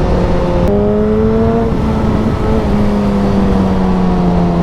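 Suzuki motorcycle engine running under way over wind noise. Under a second in, its note jumps up sharply with a click, then falls slowly as the revs drop.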